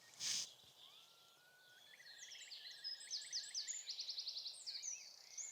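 Bird song outdoors: a brief rustle at the start, a soft rising whistle about a second in, then a busy run of rapid trills and quick whistled sweeps. The birder suspects a starling mimicking a curlew's call.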